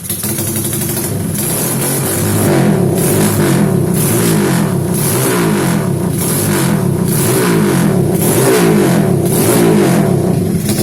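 Honda GL-series single-cylinder four-stroke motorcycle engine breathing through a D.O.S aftermarket exhaust: it climbs off idle, then is revved repeatedly in short throttle blips, about one a second.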